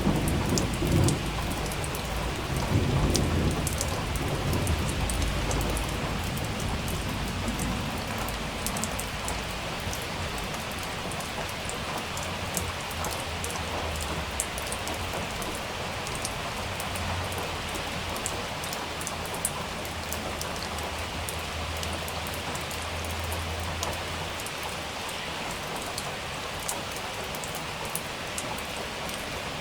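Steady rain falling with scattered close drips. A rumble of thunder in the first seconds rolls on and dies away over several seconds, and a fainter low rumble comes later.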